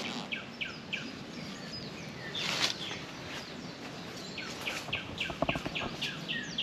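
Birds chirping in a series of short repeated notes, coming quickly, about four a second, in the later part, over steady outdoor background noise. A brief rustling swish about two and a half seconds in.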